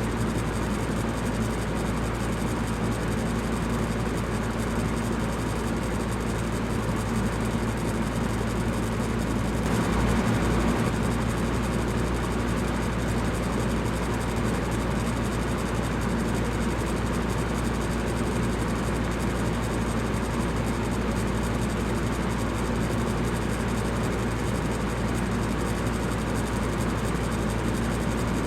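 Electric fan running steadily: an even rushing of air over a low hum, briefly a little louder about ten seconds in.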